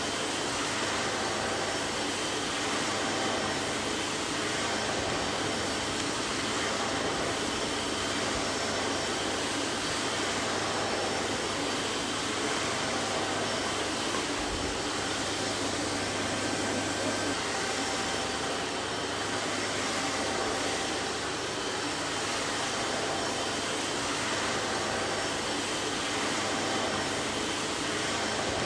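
Vacuum cleaner running steadily: an even rush of air with a faint high, steady whine from the motor.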